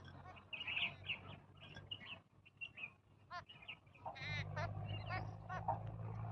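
Several birds calling: a run of short chirps and a few short, nasal, honking calls. A steady low hum comes in about four seconds in.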